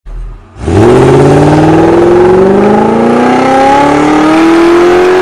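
Slalom car's engine accelerating hard in one long pull, its pitch rising steadily for about four seconds.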